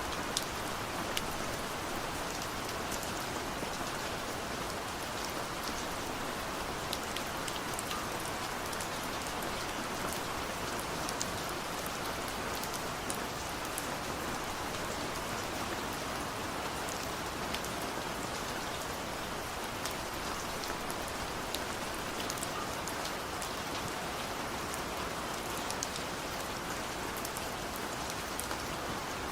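Heavy rain falling steadily, a dense even hiss with the close patter of individual drops striking a surface.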